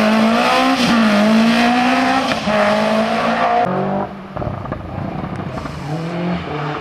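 Historic rally car accelerating hard on a special stage, its engine note climbing through the revs with a brief dip about two seconds in, then dropping away sharply about four seconds in as it goes past.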